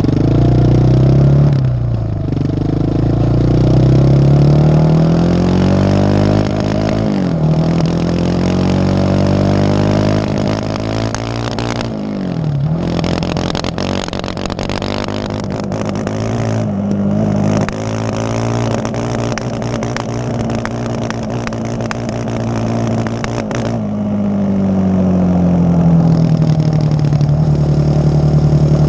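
Yamaha Raptor ATV's single-cylinder engine being revved up and let back down several times, then settling to a lower steady speed near the end. Through its middle stretch it runs with an irregular crackle and stumble: the engine is misfiring.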